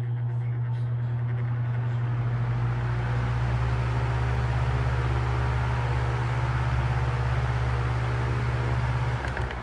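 Vintage Emerson electric table fan starting up on its high setting: a strong motor hum with a rush of air that builds over the first couple of seconds as the blades come up to speed, then holds steady. The hum stops near the end.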